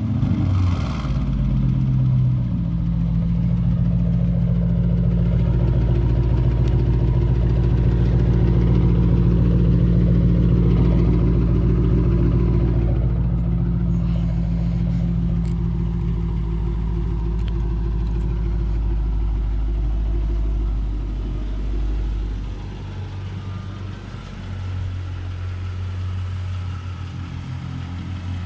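Straight-piped 2005 Chrysler 300C 5.7 L Hemi V8 (no middle muffler, resonated tips) idling loudly just after a warm start, at a steady raised idle. About 22 s in the idle drops and settles lower and quieter.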